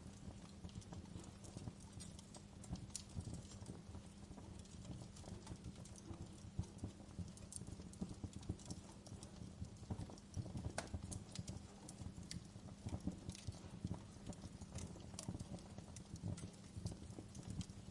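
Wood fire crackling in a fireplace: irregular small pops and snaps over a steady low rumble of the burning fire.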